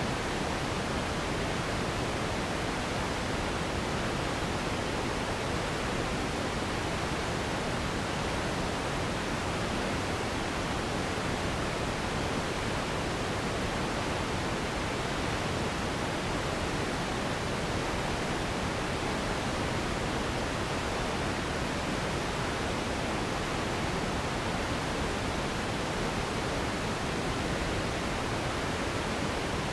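Steady, unchanging synthetic noise for sleep, an even hiss spread across the whole range with slightly less top end, in the manner of pink noise.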